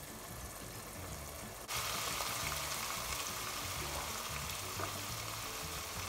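Lamb curry and its spices frying in a pot on a gas hob, a steady sizzle that jumps louder about two seconds in. The spices are being cooked out in thick sauce over medium-high heat.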